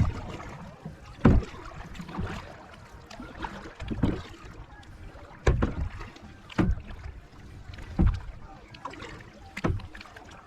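Kayak being paddled on a lake: a sharp knock or splash of the paddle against the water and hull about every second and a half, over a low wash of moving water.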